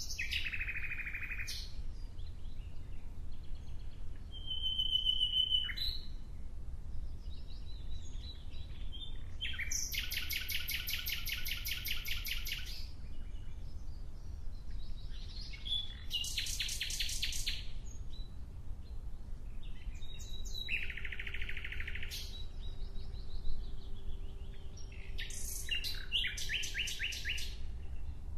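A songbird singing: loud, rapid trilled phrases of one to three seconds, repeated every few seconds, with short chirps and whistles in between, over a steady low rumble.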